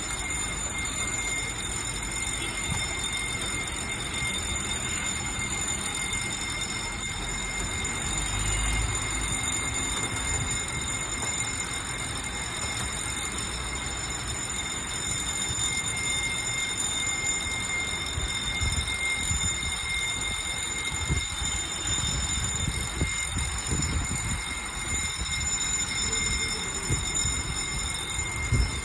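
Heavy rain falling in a steady hiss, with irregular low rumbling in the second half.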